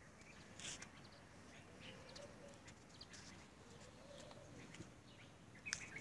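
Faint, scattered chirps of small birds, several short calls overlapping, with one sharper chirp near the end.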